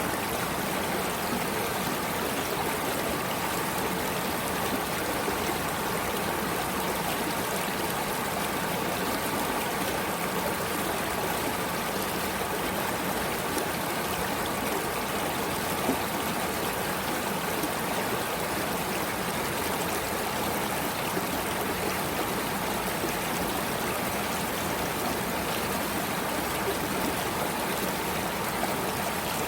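Flowing water, a steady even rushing that does not change.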